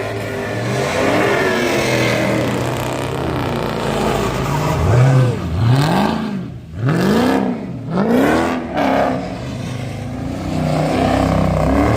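Car engine idling with a steady rumble, then revved hard several times in quick succession, each rev rising and falling, about five seconds in, before settling back to a rumble near the end.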